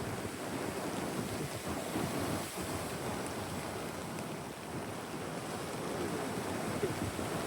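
Steady rainfall on a town street, heard as a continuous rushing hiss, with wind rumbling on the microphone.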